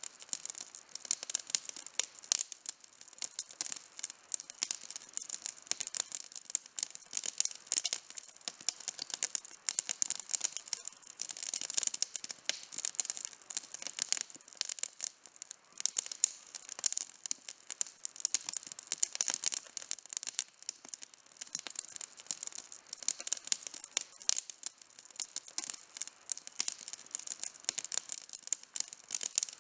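Wood campfire burning with dense, irregular crackling and popping.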